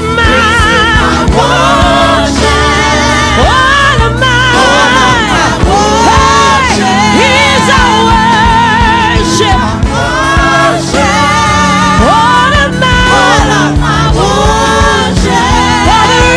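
Live gospel worship music: singing with wide vibrato over a steady instrumental backing.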